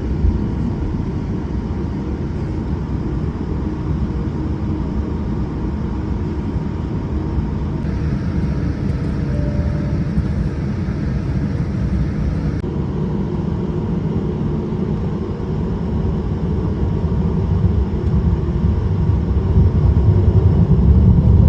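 Steady low rumble inside the cabin of a Boeing 787-10 airliner on the ground, with a spell of added hiss in the middle, growing louder over the last few seconds.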